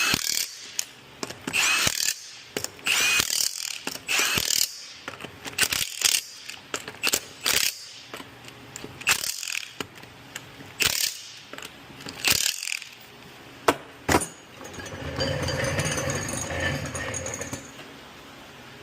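Hand ratchet wrench cranked in repeated quick strokes, its pawl clicking, running a hand-threaded nut or bolt down. Near the end the clicking gives way to a steadier mechanical sound with a low hum lasting a few seconds.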